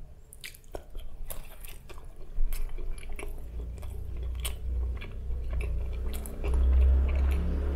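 Close-miked biting and chewing of a fried curry puff, its pastry crust giving many short, sharp crunches, with a low rumble that grows loudest near the end.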